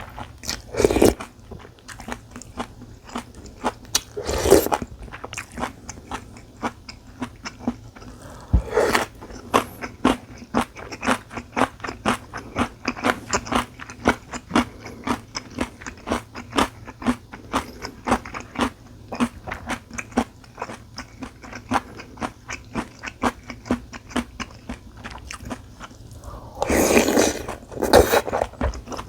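A person eating close to the microphone: steady wet chewing and biting, about three to four clicks a second, broken by a few longer, louder bursts of eating noise.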